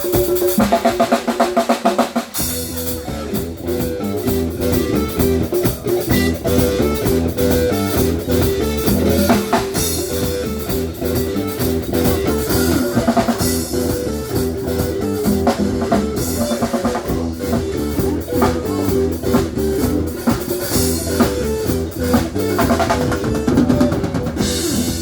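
A band playing live, with drum kit, bass and guitar. The low bass and drums come in about two seconds in.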